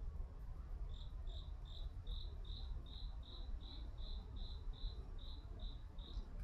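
A cricket chirping, with short high chirps evenly repeated about three times a second, which start about a second in and stop near the end. Under it runs a steady low rumble.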